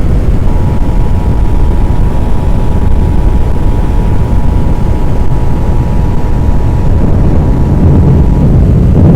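Emergency Alert System attention signal from a weather radio: a steady two-tone beep held for about eight seconds, over a heavy low rumble.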